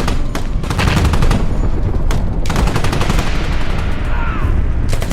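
Rapid machine-gun fire in long bursts, with a short break about two seconds in, over a constant low battle rumble.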